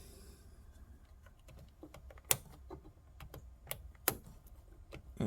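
Irregular light clicks and taps of small plastic parts being handled in a car's fuse box while a fuse is worked out, with two sharper clicks about two and four seconds in.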